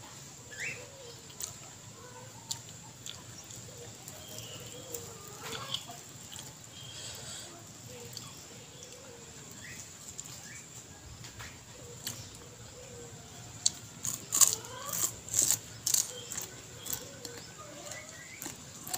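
Close-up eating sounds: quiet chewing, then a run of loud crisp crunches about three-quarters of the way through as raw lalapan greens are bitten and chewed. Faint bird calls are heard in the background.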